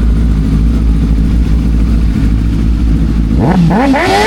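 Motorcycle engine idling with a steady rumble, then revved about three and a half seconds in, its pitch sweeping up.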